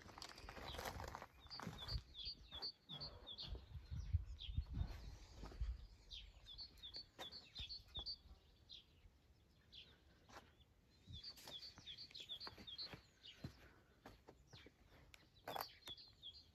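A songbird singing, repeating a short phrase of quick high chirps several times with pauses between. Low rumbling in the first few seconds.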